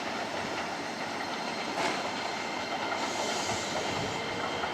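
Keisei Line electric train running on the track: a steady rumble of wheels on rail, with a sharp click about two seconds in.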